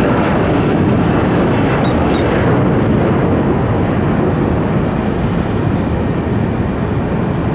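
Boeing 757 jet engines at takeoff thrust during a steep climb-out, a loud steady rush of engine noise with a faint high whine, easing slightly near the end.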